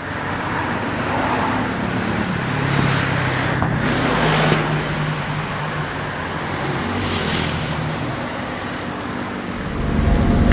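Road traffic: motor vehicle engines running with a steady low hum, two vehicles going by, and a heavier low rumble building near the end.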